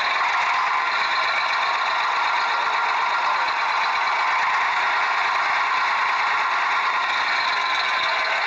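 Small electric motor and gearbox of a toy vehicle whirring steadily.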